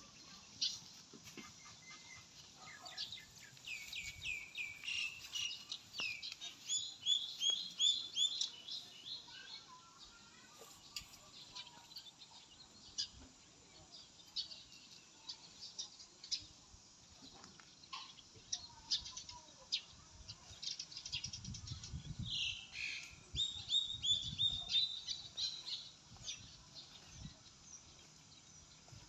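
A small bird singing: runs of quick, repeated high chirps, one lasting several seconds starting about four seconds in and another about three-quarters of the way through, with scattered single chirps between.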